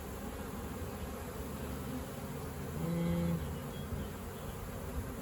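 Honey bees buzzing steadily around an opened hive. About halfway through, a single bee passes close by: a louder, lower-pitched buzz for about half a second.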